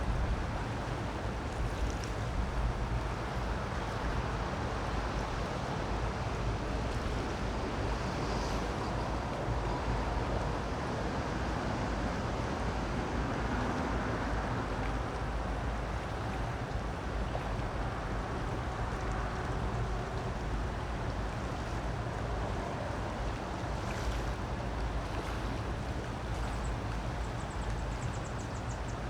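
Creek water flowing steadily, an even rush with a deep low rumble underneath.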